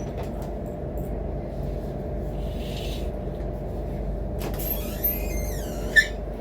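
Steady low rumble of a moving train, heard from inside the carriage. About five seconds in, a short falling squeal ends in a sharp click.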